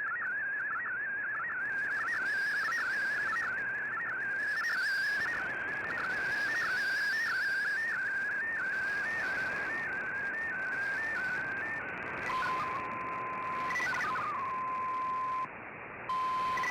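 MFSK digital-mode data signal heard through a shortwave receiver over background hiss: a single warbling tone hopping rapidly between pitches. It slows to a few stepped tones and, about twelve seconds in, settles into a steady single tone that drops out briefly near the end.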